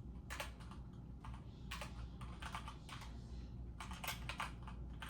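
Typing on a computer keyboard: irregular keystrokes clicking in uneven runs, over a low steady hum.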